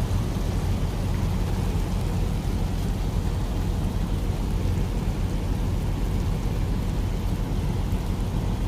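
Steady low rumble with an even hiss over it: pancit noodles sizzling as they cook down in a pan inside a truck, with a constant engine-like drone underneath.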